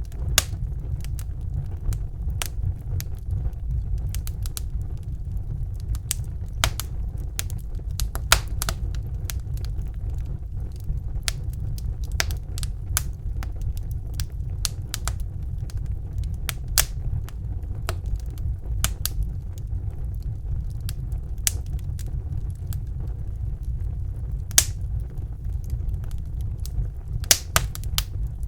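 Wood fire burning in a fireplace: a steady low rumble of flames with irregular sharp crackles and pops scattered throughout, a few louder pops standing out.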